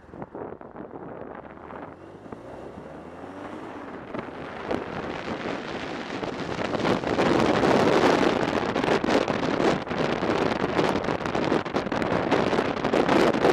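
Police motorcycle running and gathering speed, with wind buffeting the helmet-mounted microphone; it gets steadily louder over the first seven seconds or so, then stays loud.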